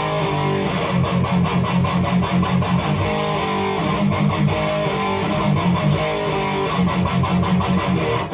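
Electric guitar tuned to drop D, played through a REVV G3 distortion pedal on its red, most aggressive setting into a tube amp, with no noise gate. It plays a fast, tight, palm-muted chugging riff, a mean chug.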